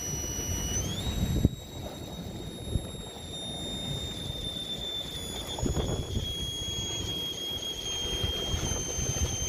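High whine of an RC rock crawler's 3Brothers Yellow Jacket 2000kv brushless motor and Mamba X ESC under throttle. The pitch steps up about a second in, then sinks slowly. Under it are a low rumble and a few knocks of the truck on rock, the loudest about a second and a half in.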